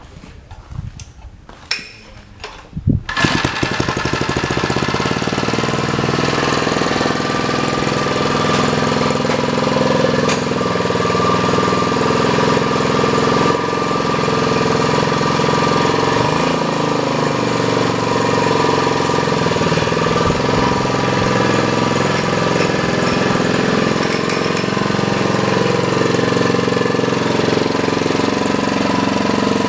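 Small single-cylinder engine of a Sears David Bradley walk-behind tractor starting about three seconds in after a few knocks, then running steadily.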